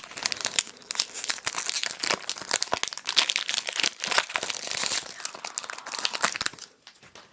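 Foil booster pack being crinkled and torn open, with close, dense crackling rustles that die away near the end.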